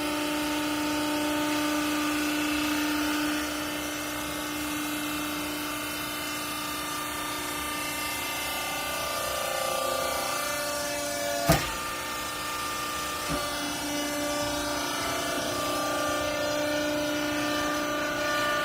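Hydraulic clothing baler's motor and pump running with a steady whine whose pitch shifts a few times. One sharp knock a little past halfway, and a lighter one about two seconds later.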